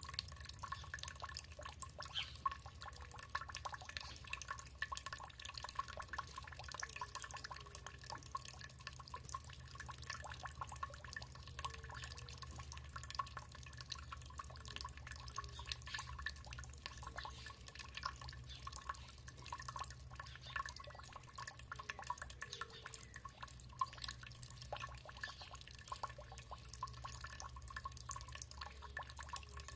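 Water dripping and trickling: a dense, irregular patter of small drops over a steady low hum.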